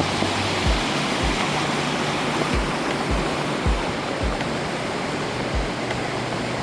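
Waterfall rushing as a steady wash of falling water, mixed with background music that has a steady low beat.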